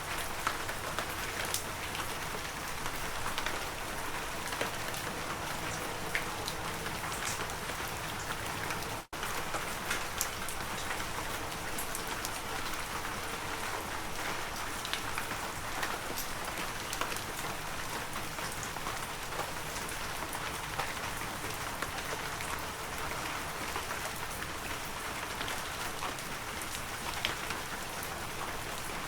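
Heavy rain falling steadily, a dense hiss with many individual drop hits ticking through it. The sound drops out for a split second about nine seconds in.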